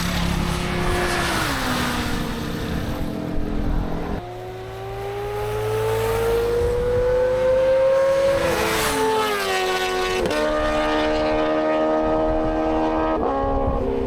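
Motorcycle engine accelerating: its pitch climbs steadily and drops at each of several upshifts, over wind noise.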